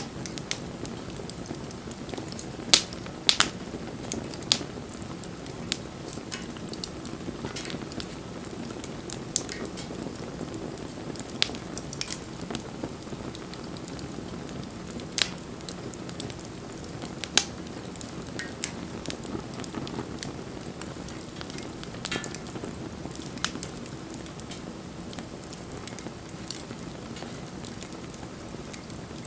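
Wood bonfire burning with a steady hiss and crackle, and sharp pops from the wood every few seconds.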